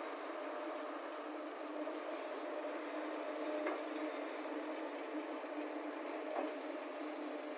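Excavator diesel engines running steadily while loading soil, with two sharp knocks about three and a half and six seconds in.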